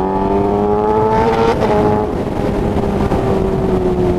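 Kawasaki ZX-10R's 998 cc inline-four running through an SC Project exhaust, accelerating with rising pitch, then shifting up about a second and a half in with a brief break in the sound, after which the engine note drops and holds steady, easing slightly.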